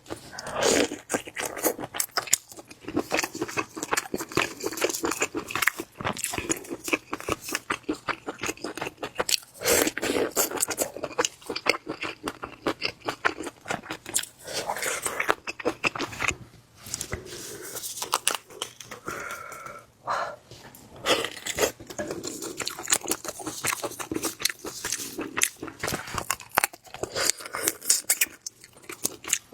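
A person eating into a close microphone: steady chewing and biting with dense, irregular crunches and wet mouth clicks.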